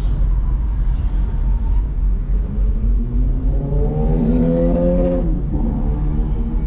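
Road traffic with a steady low rumble of tyres and engines. About two and a half seconds in, a vehicle's engine rises steadily in pitch for about three seconds as it accelerates, then drops off sharply near the end, as at a gear change.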